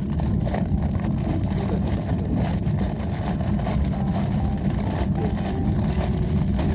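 Steady low rumble of a train running, heard from inside a passenger car.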